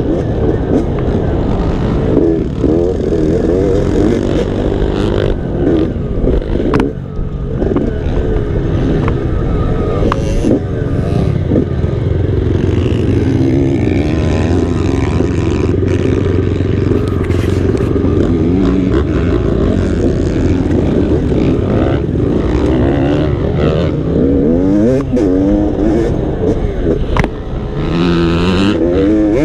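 Motocross dirt bike engine being ridden hard, its revs rising and falling again and again, with scattered knocks and rattles.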